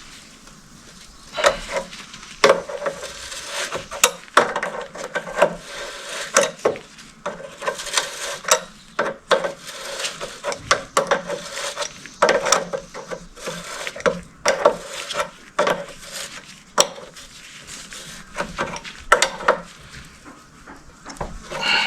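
Irregular clinks, knocks and scraping of metal parts and hand tools being handled during engine assembly, some strikes ringing briefly.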